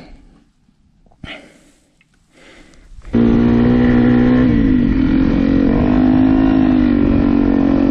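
Trail motorcycle engine held at high revs, cutting in suddenly about three seconds in, dipping briefly and then holding a steady pitch, as the rear wheel spins and slips in soft sand. Before it come a few short scuffs and knocks.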